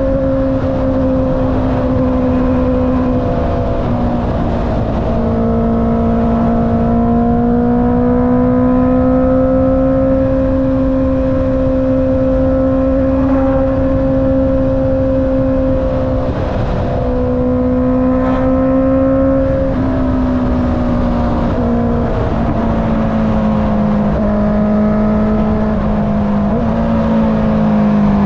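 Honda CB650R's inline-four engine through an Akrapovic exhaust, cruising at a fairly steady pitch with a few brief dips and recoveries as the throttle eases and opens. The pitch drops slightly near the end. Heavy wind rumble sits on the microphone underneath.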